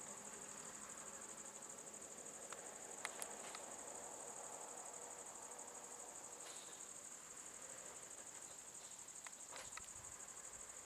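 Insects trilling steadily at one high pitch, a constant jungle insect chorus, with a few faint clicks.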